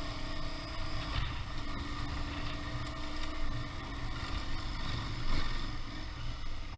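Motorcycle engine running steadily while riding, with a low rumble of ride noise underneath.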